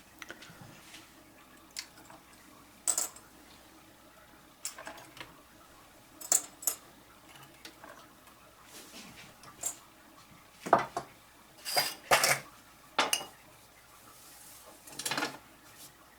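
Irregular light clicks and clatters of hard plastic pieces knocking together, as when an articulated 3D-printed dragon is handled and its segments flop, with a cluster of louder clacks about two thirds of the way in.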